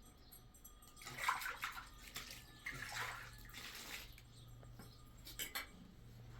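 Water splashing and sloshing, in three short spells: about a second in, around three seconds in, and briefly near the end.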